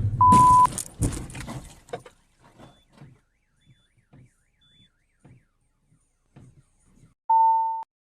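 A loud crash of noise in the first second, with a second burst just after it, then scattered fainter knocks and clatter dying away. A short steady beep, a censor bleep, cuts in about a quarter second in and again near the end.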